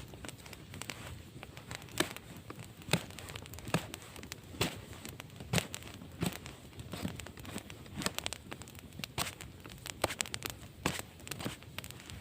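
Irregular sharp crackles and snaps, one to three a second, with no steady rhythm.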